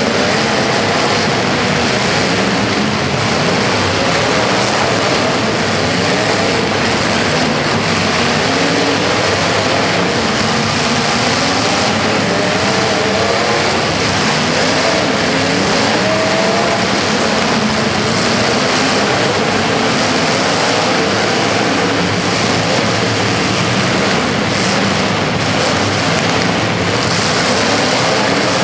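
Several racing engines running together during a race, their pitches wavering up and down as the vehicles speed up and slow down.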